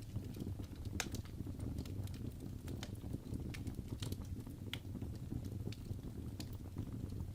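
Fireplace fire burning: a steady low rumble with scattered sharp crackles and pops, one or two a second.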